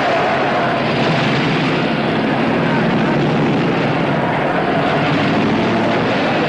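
Stock car engines running together in a race, a steady loud drone.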